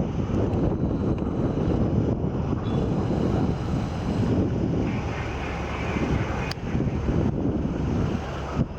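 Strong wind blowing across the microphone, a dense low rumble with no let-up.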